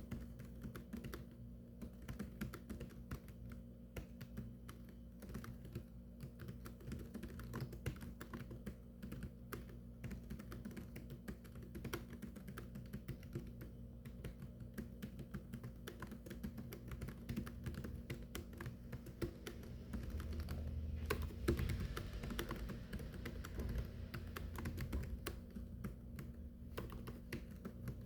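Rapid, continuous typing on a keyboard, keystrokes clicking in quick irregular runs, with one louder knock about 21 seconds in.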